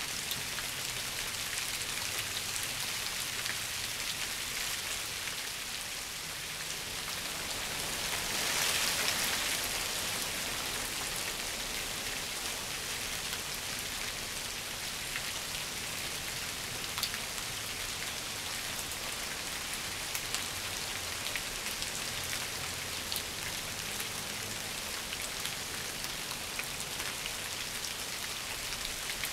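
Steady rain falling on shrubs and fallen leaves: an even hiss with scattered sharp drips. The hiss swells briefly about eight seconds in.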